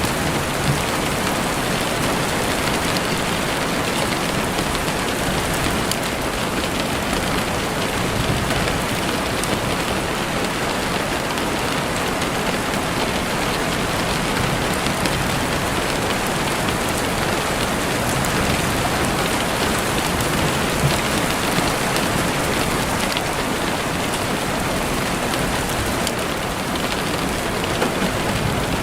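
Steady rain falling through trees: an even, dense hiss with a few faint sharper ticks.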